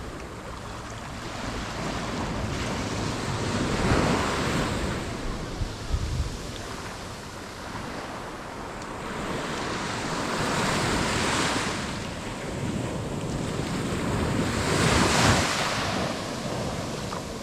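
Surf breaking on a beach, swelling up three times as waves come in and wash up the sand, with some wind buffeting the microphone.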